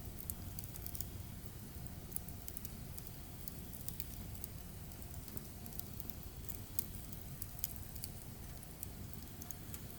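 Firewood burning, with scattered sharp crackles and pops over a low, steady rumble.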